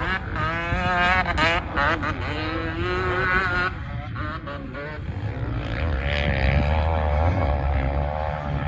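Small two-stroke motocross bike engines revving, the pitch wavering up and down as the throttle opens and closes. A second bike comes through louder about six seconds in.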